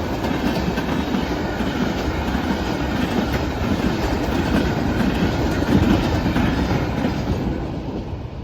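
CSX freight train of tank cars rolling past at a grade crossing: a steady rumble of steel wheels with a dense run of short clacks as they cross rail joints, dropping off near the end.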